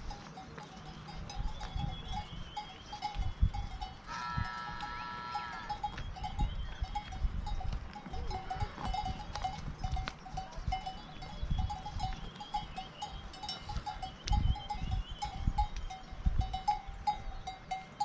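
Bells on a flock of sheep and goats clinking steadily, with one drawn-out bleat about four seconds in, over low rumbling.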